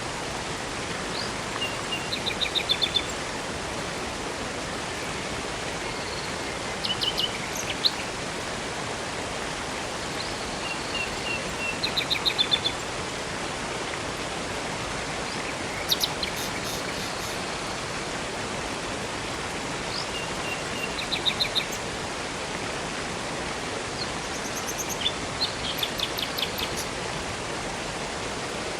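Steady rush of flowing river water, with small birds singing short, high phrases about every four to five seconds.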